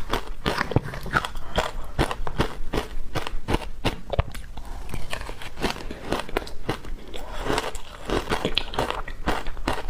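Close-up biting into wet frozen matcha ice: a dense run of sharp, irregular crunches and crackles as the ice breaks between the teeth.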